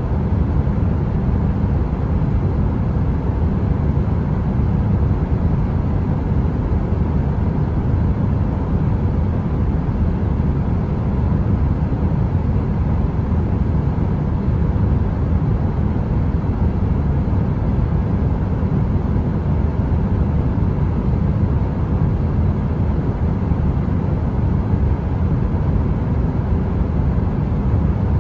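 Heater white noise: a steady, unchanging hush weighted deep in the bass, like brown noise, with no crackle or change in level.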